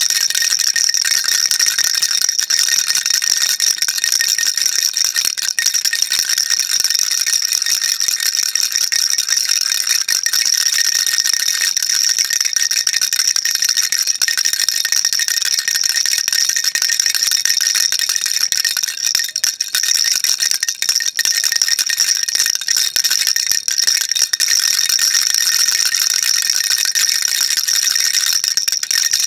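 Baby rattle shaken continuously: a dense, steady, high-pitched rattling with no pauses.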